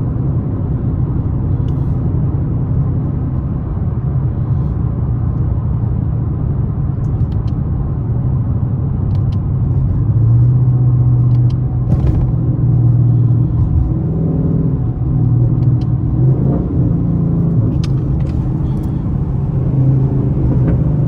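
Ford Mustang GT's V8 engine and road noise heard from inside the cabin while driving: a steady low rumble that grows stronger and shifts in pitch about ten seconds in as the car pulls harder, with a few faint clicks.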